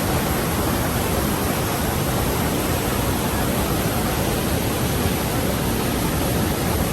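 Rhine Falls waterfall: a loud, steady rush of falling water.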